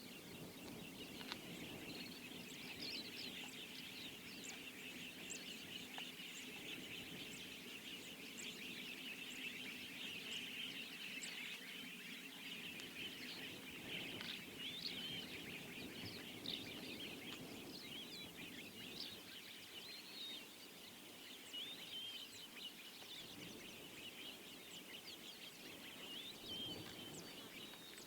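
Dense chorus of wild birds chirping and calling over a low steady hum.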